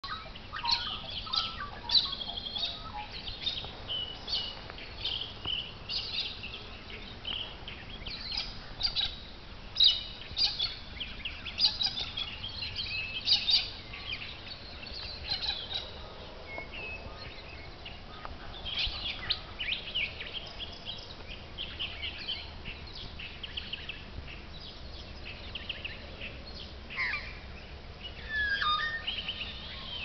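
Birds calling: many short, high chirps and whistles overlapping, busiest in the first half and again near the end.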